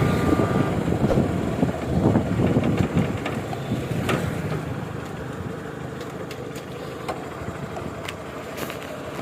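Motor vehicle noise, with a heavy, uneven low noise that grows gradually quieter after about three seconds. A few sharp clicks stand out near the end.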